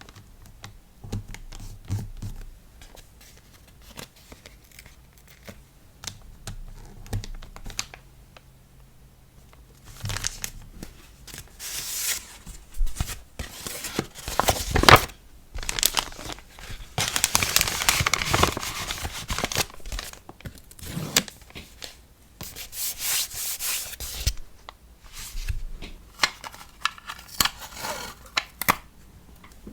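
Hand-packing an order: light taps and handling for about ten seconds, then repeated bursts of tearing and crinkling of paper and plastic packaging.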